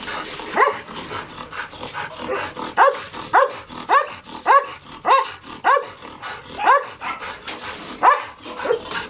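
Dog barking: about nine short, pitched barks, most of them in a quick, evenly spaced run through the middle, with single barks near the start and near the end.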